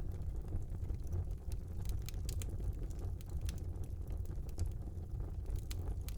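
Fire burning in a small fireplace: a steady low rumble of flames with scattered sharp crackles and pops.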